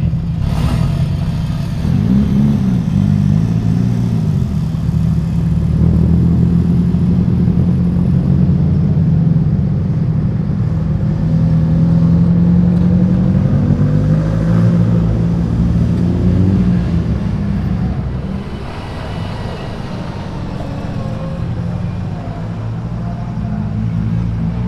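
Several car engines running close by as the cars roll out, a dense low engine drone whose pitch rises and falls a few times as drivers blip the throttle. It eases off somewhat near the end.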